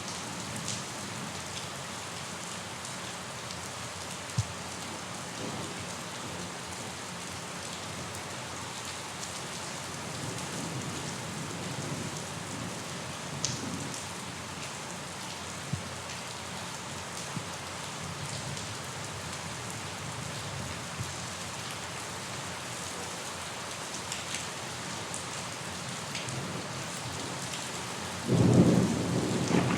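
Steady rain falling, with occasional sharp drop ticks. Near the end a loud thunder rumble breaks in suddenly.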